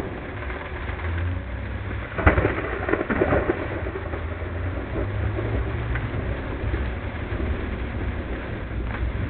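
A close thunderclap about two seconds in: a sharp crack followed by about a second of crackling. Under it runs the steady low rumble of a car driving through heavy rain. The audio is sped up to double speed.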